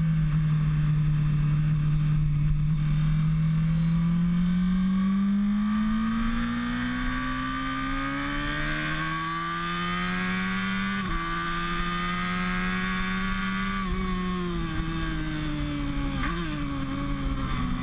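Motorcycle engine under load on a track, its pitch climbing steadily as it accelerates, with a quick gear change about eleven seconds in. Near the end the engine eases off and drops in pitch through a downshift.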